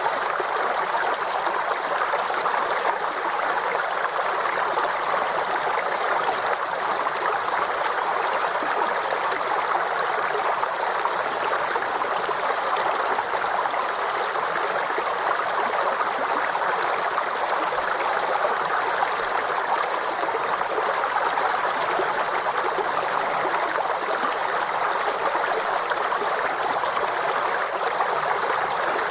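Forest stream running over stones, a steady babble of flowing water.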